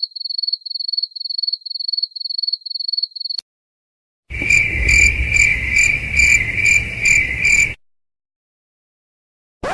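Cricket chirping sound effect: a high chirp repeating about three times a second, which stops abruptly after a few seconds. After a brief gap, a louder, different pulsing sound effect with a rumble beneath it plays for about three seconds.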